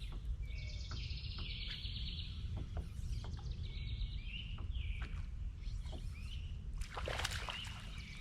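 Birds chirping and singing in repeated short phrases over a steady low rumble, with a few light clicks.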